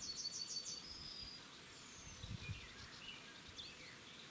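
Faint outdoor ambience with small birds chirping: a quick run of high chirps in the first second or so, then scattered, fainter calls.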